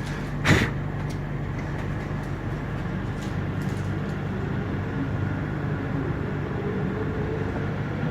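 Frankfurt U-Bahn train running between stations, heard from inside the car: a steady low hum with wheel and track noise, and one sharp clack about half a second in.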